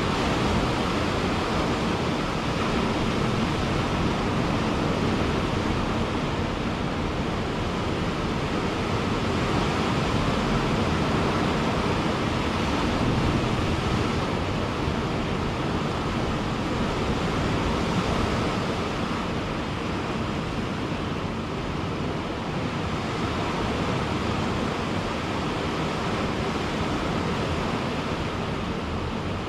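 Ocean surf washing onto a beach in a steady wash of noise, swelling and easing slowly as the waves come in.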